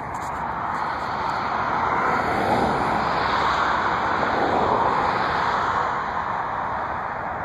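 Jet aircraft engine noise, a broad rush that swells over the first few seconds, peaks about four to five seconds in, then eases off.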